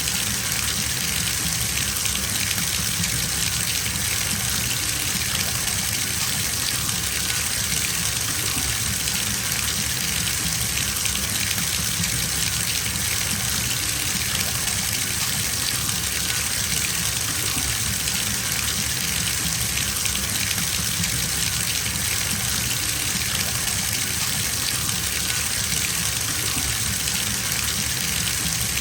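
Bathtub filling from a running tap, water gushing steadily into the tub with an even hiss.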